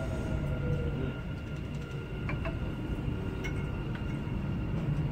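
Metro train carriage interior as the train slows into a station: a steady low rumble with a faint steady whine above it and a few light clicks.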